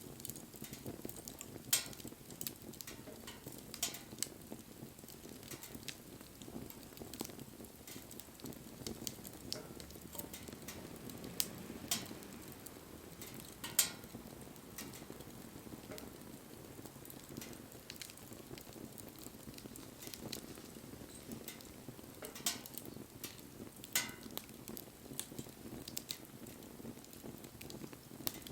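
Wood fire burning: a steady crackle and hiss with scattered sharp pops of burning wood, the loudest about 2, 14 and 24 seconds in.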